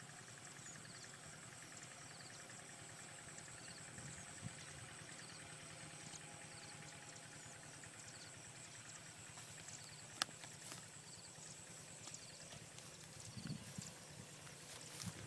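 Faint outdoor ambience: a steady high buzz with a small chirp repeating about every second, a single sharp click about two-thirds of the way through, and a few soft knocks near the end.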